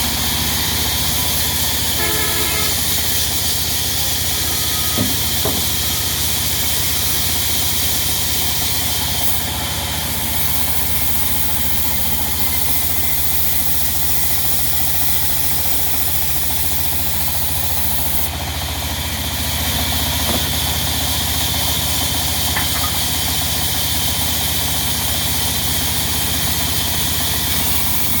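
Diesel engine driving a sawmill, running steadily with a constant low hum under a steady high hiss.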